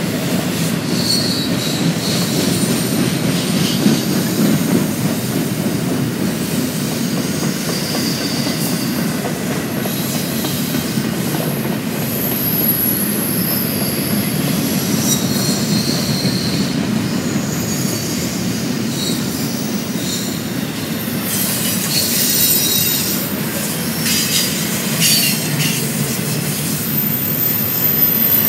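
Freight train cars rolling past: a steady low rumble with high-pitched wheel squeals that come and go, and a run of clattering clicks from the wheels about three-quarters of the way through.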